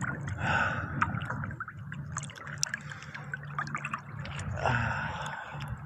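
Water splashing and trickling in irregular bursts, over a steady low hum.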